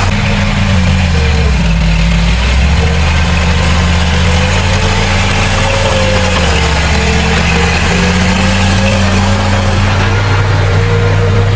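Heavy diesel engine of earthmoving machinery running steadily, its pitch shifting up and down a little.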